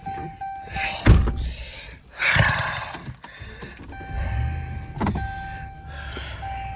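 Getting into a truck: a heavy door thump about a second in, a rustle, and a steady electronic warning chime, then a low engine rumble that sets in about four seconds in and holds steady.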